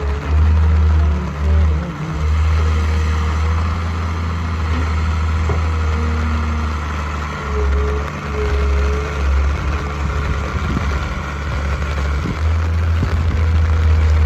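Diesel engine of a backhoe loader or tractor running steadily with a deep low hum, at work loading sand.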